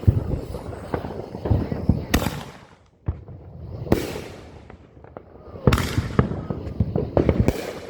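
Consumer fireworks going off: a rapid string of crackling pops, then loud bangs about every two seconds, each followed by a fading hiss.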